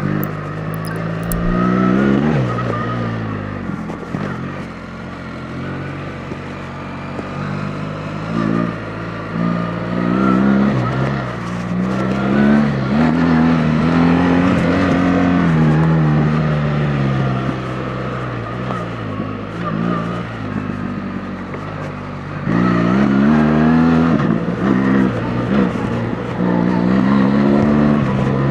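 BMW R 1300 GS Adventure's boxer twin engine under way, the throttle opened and closed so the revs climb and drop back several times, held high for a few seconds midway.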